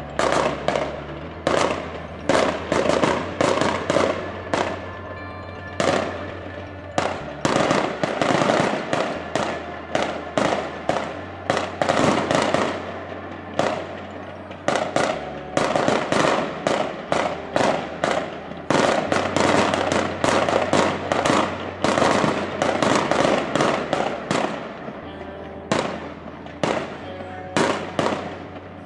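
Aerial fireworks display: rapid volleys of shell bursts and crackling, almost continuous, with short lulls about seven and fourteen seconds in. Background music plays underneath.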